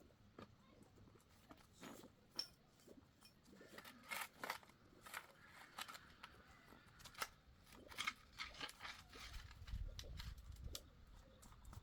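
Faint, irregular clicks and taps, with a low rumble rising briefly about three-quarters of the way through.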